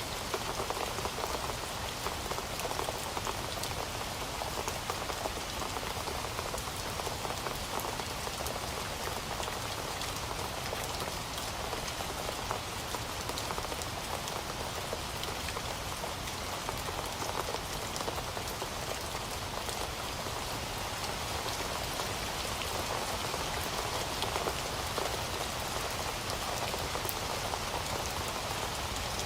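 Heavy rain falling steadily on a hard surface, a dense even patter of drops with no let-up.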